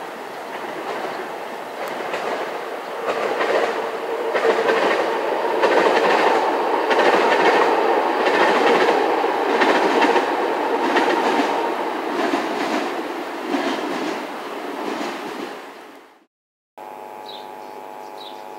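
A BDZ train passing along the far side of the valley, its wheels clicking regularly over the rail joints. The sound swells to a peak about halfway through and fades away. It cuts off abruptly near the end, leaving a quieter steady hum with a few short high chirps.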